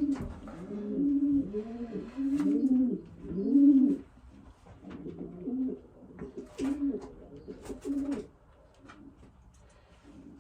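Racing pigeons cooing: a run of low, arching coos, loudest in the first four seconds, then softer until they stop about eight seconds in. A few light clicks and taps are mixed in.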